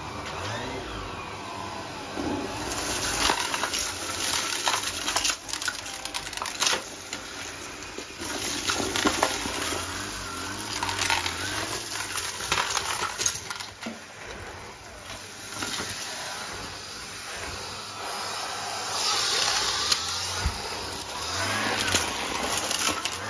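Numatic Hetty vacuum cleaner running while it sucks up a dry mess, with debris clicking and rattling as it goes up the hose and wand.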